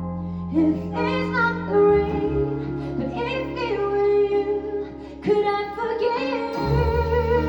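Live jazz-pop band music with a woman singing, her voice bending and wavering over sustained low notes; the bass line shifts about two seconds in and again near the end.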